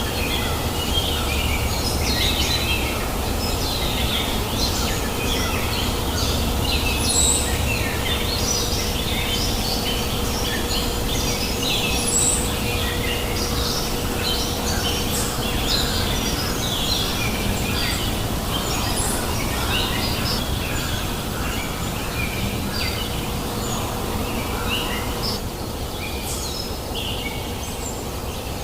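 Many small birds chirping and calling busily over the steady babbling rush of a river. The birdsong thins out near the end.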